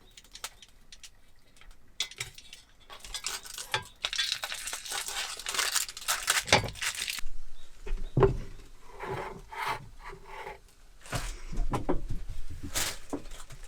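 Close handling sounds: irregular rubbing and scraping with light clinks and knocks, busiest in the middle stretch.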